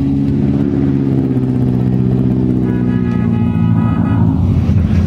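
A hatchback's engine held at high revs while the car spins donuts, wheels spinning and tyres smoking; the engine note sags slightly, then holds. A higher-pitched note sounds for about a second and a half near the middle.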